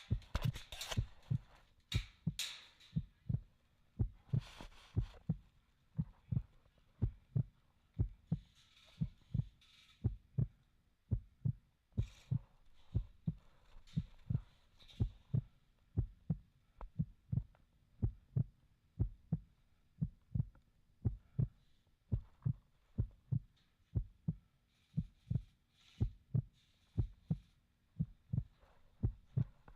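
Low thuds repeating steadily about twice a second, with scattered bursts of rustling hiss.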